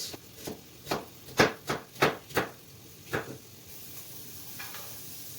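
Chef's knife slicing half a white onion into thin strips on a cutting board: about seven uneven knocks of the blade on the board over three seconds. A steady hiss comes in after that.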